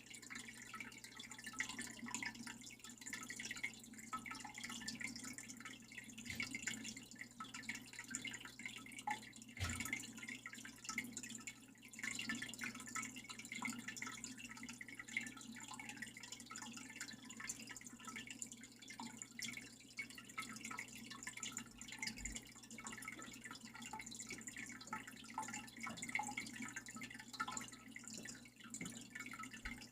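Water trickling with a steady patter of small, irregular drips, as from a small waterfall.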